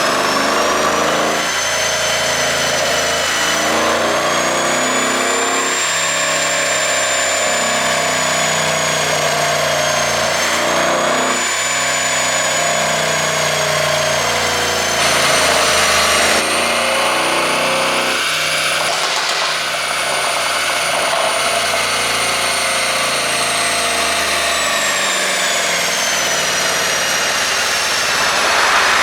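Mercedes-Benz S500's twin-turbo V8 running steadily, its pitch drifting slowly up and down.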